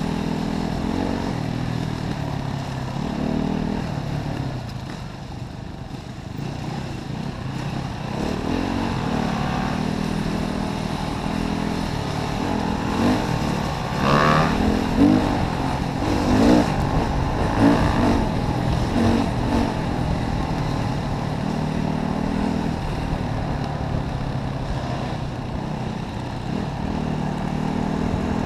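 Single-cylinder four-stroke Yamaha WR450F enduro motorcycle engine running under load on a trail ride. The revs ease off briefly near the start. Past the middle comes a run of quick throttle blips, the pitch rising and falling, before it settles back to a steady pull.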